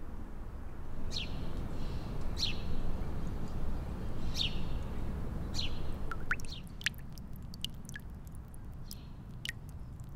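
Small birds chirping: four short calls sweeping downward, a second or so apart, then a quicker scatter of sharp chirps, over a steady low outdoor rumble that eases about six seconds in.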